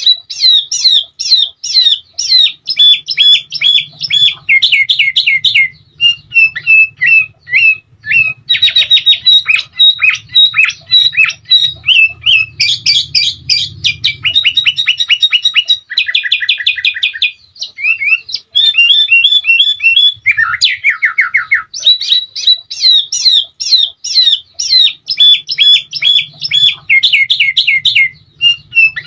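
Sooty-headed bulbul (kutilang) singing continuously in runs of fast, repeated sharp chirps and short trills, one phrase after another with only brief breaks.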